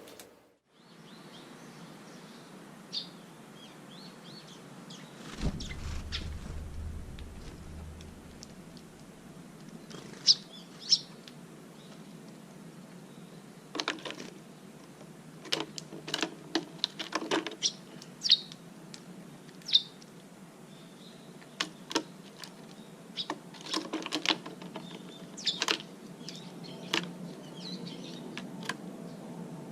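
Small birds chirping in short, scattered calls, mixed with sharp clicks and taps that come in clusters in the second half.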